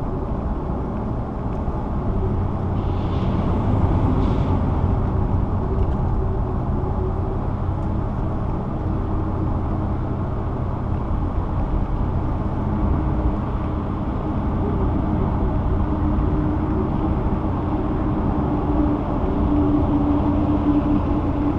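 A car driving on a highway: steady road and engine noise, with a faint steady tone coming in near the end.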